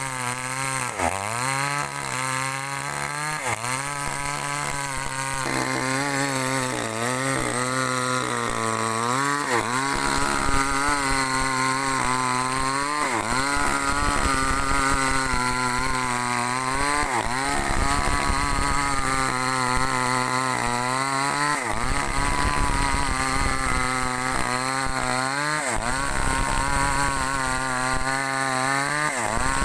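Small chainsaw cutting lengthwise through a log to make boards, running throughout with its engine note dipping and recovering again and again as the chain bogs under load.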